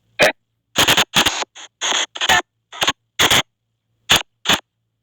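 SP White Noise spirit-box app sweeping: an irregular string of short, choppy bursts of noise and clipped audio fragments, two or three a second, cut apart by brief silences, over a faint low hum.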